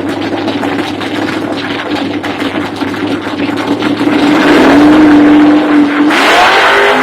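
Drag racing car engine idling with a fast, choppy beat, then steadying about four seconds in and revving up sharply with a rising pitch near the end.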